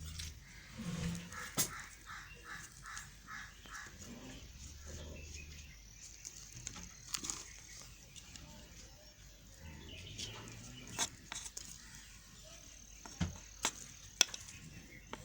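A knife cutting through a bar of white Safeguard soap: sharp, crisp clicks and snaps scattered every second or two, several falling close together near the end. About a second in, an animal calls about six times in quick succession in the background.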